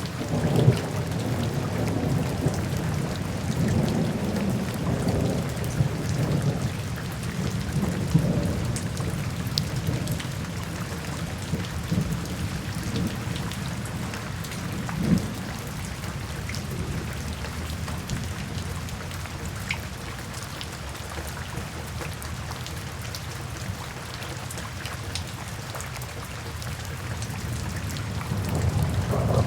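Steady rain with low rolling thunder, which swells in the first several seconds and again near the end. Faint scattered crackles of a wood fire ride on top.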